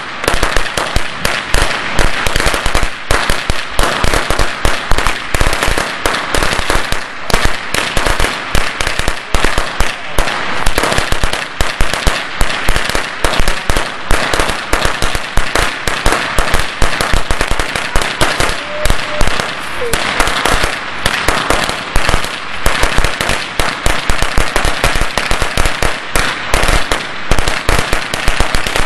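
A long string of firecrackers going off in a dense, rapid crackle of sharp bangs, many per second, that keeps going without a break.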